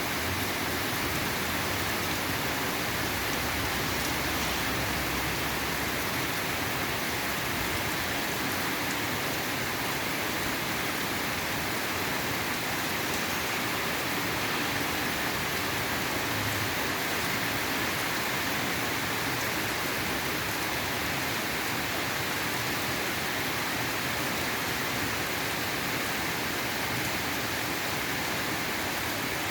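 Steady rainfall, an even hiss of rain on surfaces that does not change.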